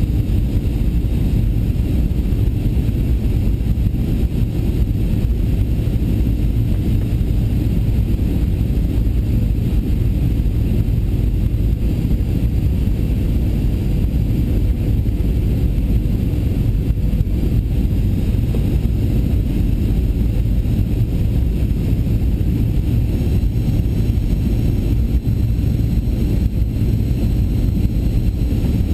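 Steady low rumble of a Boeing 737-800's CFM56 engines and the airflow, heard inside the passenger cabin.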